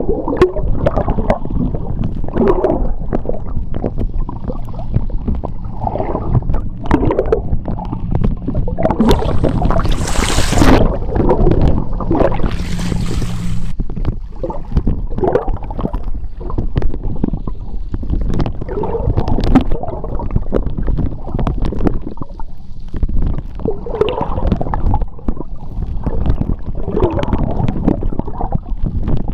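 Sea water heard underwater through a submerged phone microphone: a continuous low rumbling slosh of moving water that swells and fades, with two short hissing rushes of bubbles around the middle. A faint steady low hum runs underneath and stops about halfway through.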